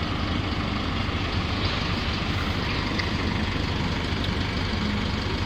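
Isuzu N-series truck's 4JJ four-cylinder diesel engine running steadily at idle.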